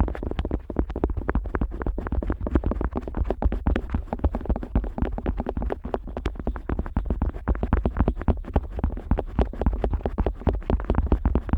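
Otoscope rubbing and scratching over the outer ear of a Neumann KU100 dummy-head microphone, heard close up as a dense, rapid stream of scrapes and clicks over a low rumble.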